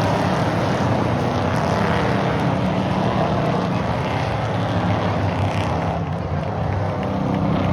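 Stock race cars' engines running on an oval track, a steady continuous drone of several engines that eases slightly about six seconds in and picks up again near the end.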